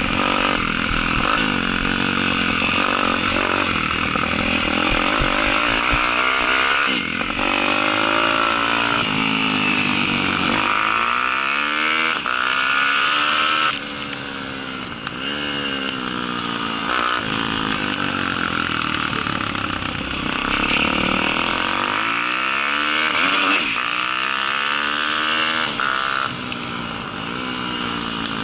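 Daytona 190 four-stroke pit bike engine under race use, its revs repeatedly dropping and climbing again every few seconds as the throttle is rolled off and reopened through corners.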